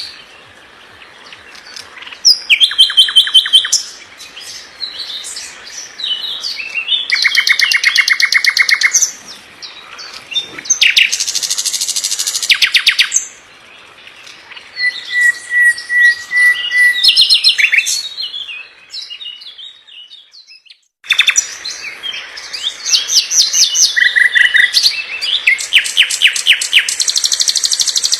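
Songbird singing: loud phrases of rapid repeated notes and trills, with a held whistle about halfway through. The sound drops out completely for a moment about three-quarters of the way through, then the song resumes.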